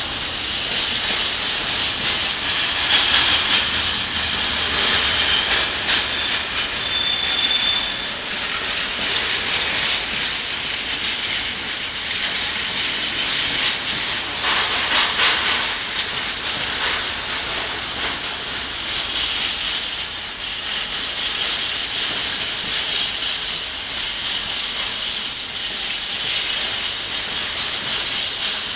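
Freight train wagons rolling past on the rails, a steady loud hissing rumble with irregular clatter of wheels over the track. There is a short high squeal about seven seconds in.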